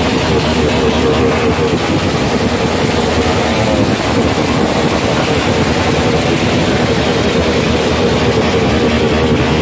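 Motorcycle engine running loudly, its pitch wavering up and down as the throttle is blipped repeatedly.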